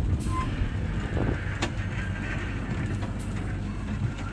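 Amusement-park ride train running: a steady low rumble with a few sharp clicks, roughly one every second and a half.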